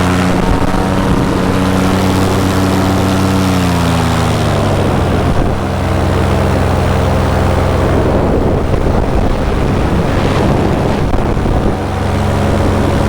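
Paramotor engine and propeller running steadily, then throttled back about four seconds in, its pitch dropping. It runs low under a rushing noise for several seconds, then comes back up near the end.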